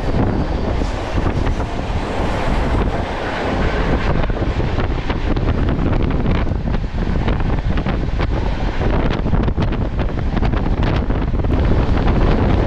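A moving express train heard from on board, with wind buffeting the microphone over a steady rumble. From about four seconds in, many sharp clicks and rattles of the wheels run through it.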